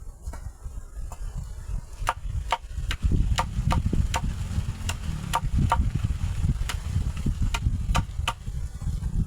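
A dozen or so sharp chopping strikes, like a blade biting into wood, coming irregularly about twice a second, each with a short ring, over a steady low rumble.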